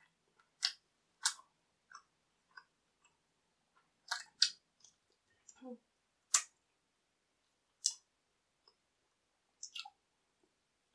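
Close-up chewing of crisp thin-crust pizza: sharp crunches and mouth clicks at irregular intervals, the loudest about a second in, around four seconds in, and near six and eight seconds.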